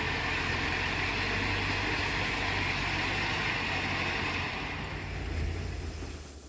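Floodwater rushing in a steady torrent, with a low rumble underneath, fading away over the last two seconds.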